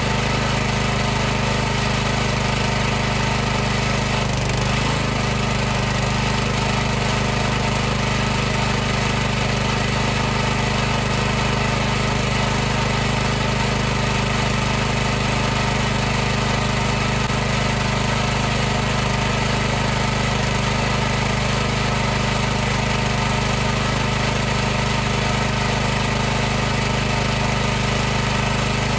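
High-pressure washer pump running steadily: a constant loud mechanical drone with a steady low hum.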